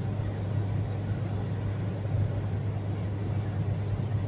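Steady road and engine noise of a car cruising at highway speed, heard from inside the cabin: a constant low hum under even tyre rush.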